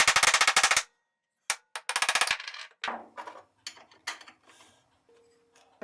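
Hammer blows on metal fitting new bearings in place of a hydraulic press: a dense, rapid run of strikes in the first second, another short burst about two seconds in, then scattered lighter knocks and clinks.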